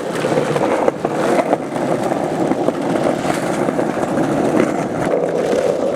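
Skateboard wheels rolling steadily over pavement, a continuous rumble with a few light clicks from cracks in the ground.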